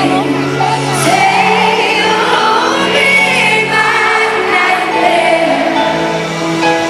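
A female pop singer performing a slow ballad live with band accompaniment, the audience singing along with her.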